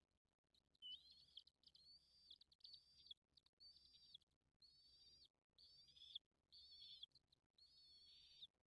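A bird calling over and over in faint, short, high calls, about two a second, starting about a second in.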